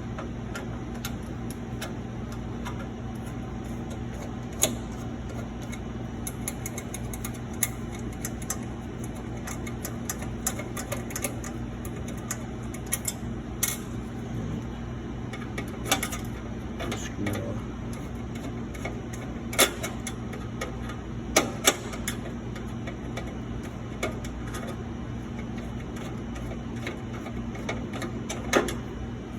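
Irregular small metal clicks and taps from a screwdriver working out the small screws that hold the spark igniter assembly on a Groen gas kettle's burner compartment. A few louder clacks stand out, over a steady low hum.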